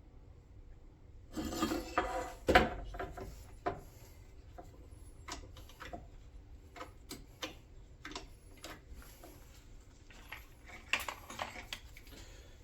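Small metal parts and hand tools being handled, clattering and clicking: a louder rattle about a second and a half in, then a string of separate sharp clicks and light knocks, with another short rattle near the end.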